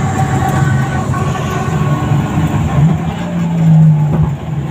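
Drift car's engine running with revs rising and falling: a steady note that climbs higher about three seconds in, then drops back near the end.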